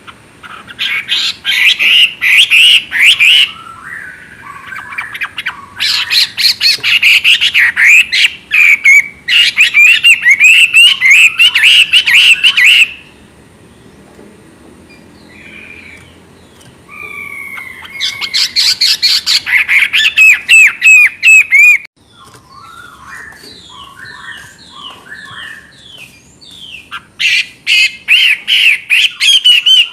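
Chinese hwamei singing: loud bouts of rapid, repeated whistled notes lasting a few seconds each, with several seconds of pause or softer, lower notes between the bouts.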